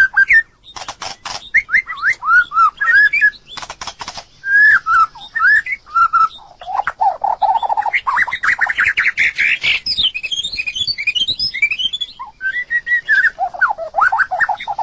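White-rumped shama singing a rich, varied song: clear whistled phrases that slide up and down, runs of sharp clicks, and a fast trill about halfway through.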